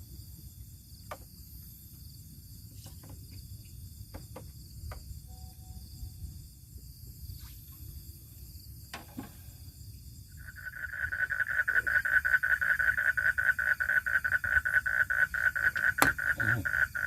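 An animal's loud, rapid pulsing trill starts about ten seconds in and keeps going, over a low steady background rumble with a few faint clicks before it.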